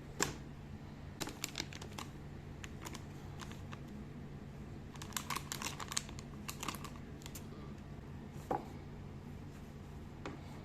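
Light clicks and rustles of small items and packaging being handled: a few at first, a dense run in the middle, then single taps. A steady low hum runs underneath.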